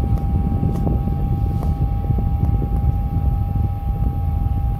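Portable misting fan running on low speed with the mist on constant. Its airstream is blowing onto the microphone as a steady buffeting rumble, with a thin steady whine above it.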